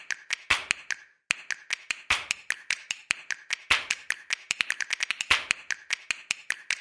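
A fast, irregular run of sharp clicks, several a second, with a brief pause about a second in.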